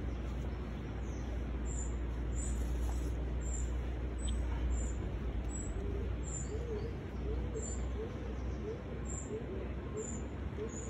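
Birds calling over a steady low rumble: a short high chirp repeated about once a second, and from about halfway in a low cooing call repeated about twice a second.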